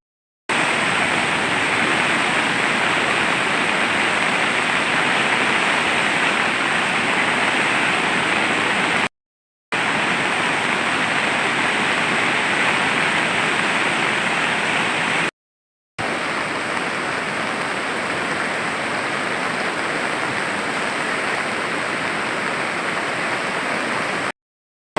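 Flooded Kali Gandaki river rushing with a steady, dense noise of water, cut three times by a brief dead silence where the recording jumps between shots.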